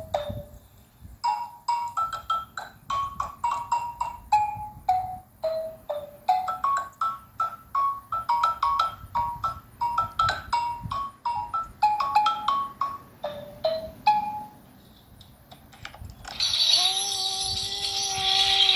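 Xylophone played by hand: a long run of quick struck notes, many of them repeated, each with a short ring. After a brief pause near the end, a tambourine or rattle starts shaking under a held note.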